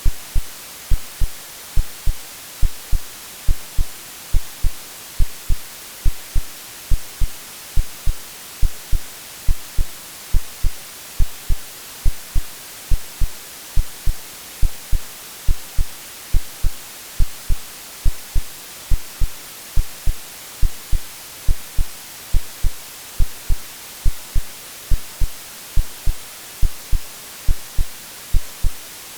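AI-generated heartbeat sound, a low lub-dub double thump repeating steadily about once a second, laid over continuous white-noise hiss.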